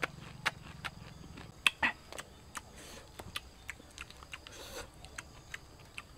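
Chewing a mouthful of cooked crickets: short, sharp, crisp crunches, about two or three a second, close to the microphone.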